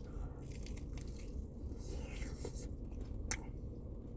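A person biting and chewing a mouthful of crispy fried chicken sandwich, with a single sharp crunch about three seconds in.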